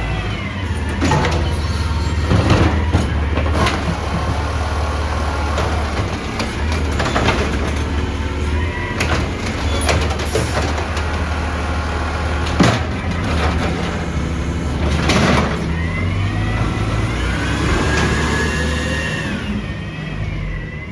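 Amrep garbage truck at work collecting: its diesel engine runs steadily under repeated metal clanks and bangs from the body and cans, with high squeals that glide down in pitch, most clearly near the end.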